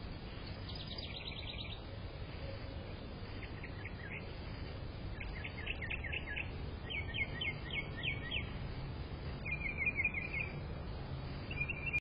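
A bird singing short, rapid trills of quick down-slurred notes, about six phrases spaced a second or two apart, over a steady low background rumble.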